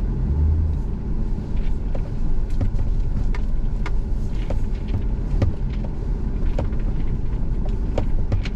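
Vehicle driving slowly, a steady low rumble with frequent small knocks and rattles, as on a rough dirt pull-off.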